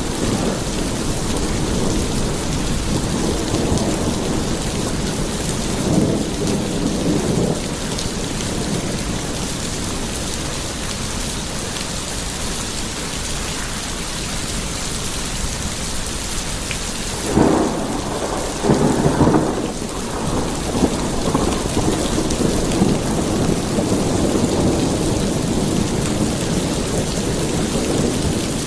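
Steady rain falling, with rolling rumbles of thunder; the loudest rumbles come a little past the middle.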